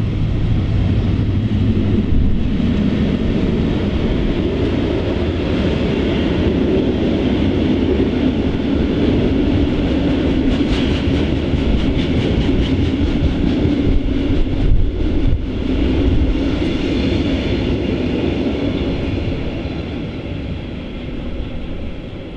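Freight train of loaded timber wagons rolling past, a steady rumble of wheels on rails with clicks over the rail joints midway through. It fades as the tail of the train passes near the end.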